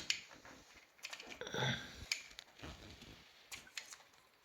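Irregular light clicks, taps and rattles of an electric scooter's controller and its wiring being handled and worked loose from the scooter's body.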